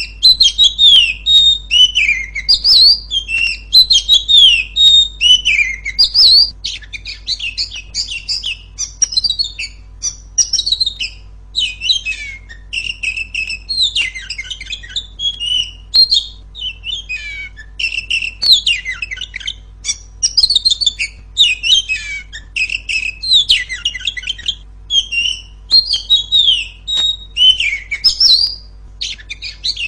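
Oriental magpie-robin (kacer) singing without pause: a rapid, loud stream of varied high whistles, chirps and trills, the female's voice used as a master recording to set male birds singing.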